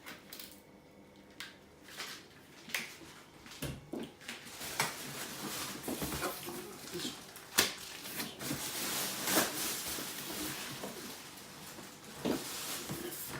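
Cardboard box and packaging being handled: scattered knocks and clicks, with a stretch of rustling about halfway through.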